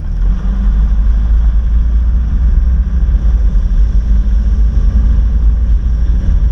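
A road vehicle on the move: a steady, loud low rumble of engine and road noise.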